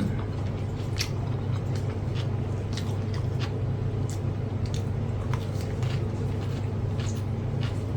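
A man chewing food, with scattered short clicks and smacks, over a steady low background hum.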